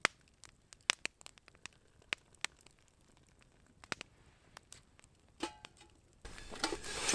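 Wood campfire crackling, with scattered sharp pops. About six seconds in, a louder, denser stretch of crackling and rustling starts suddenly.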